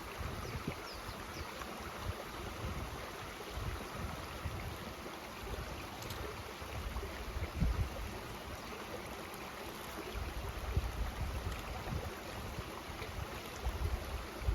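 Mountain stream rushing steadily over rocks, with uneven low rumbles beneath it.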